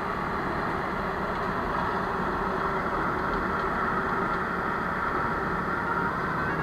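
Vehicle engines idling with a steady, even running noise.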